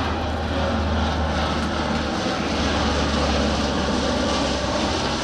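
Turboprop transport aircraft flying past, its propeller engines giving a steady low hum over a wide rushing noise.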